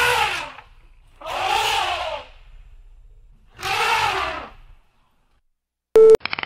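African elephant trumpeting three times, each call about a second long and arching in pitch. Shortly before the end comes a very short, loud beep-like tone.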